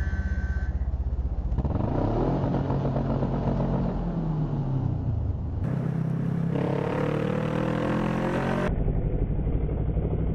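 Kawasaki ER-6n parallel-twin motorcycle engine running steadily, then accelerating about one and a half seconds in. Its pitch climbs and drops through gear changes, then rises again in another pull after about six seconds.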